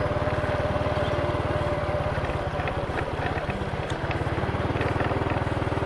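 Motorbike engine running steadily while riding at low speed, its exhaust a rapid low pulsing, easing slightly for a second or so partway through.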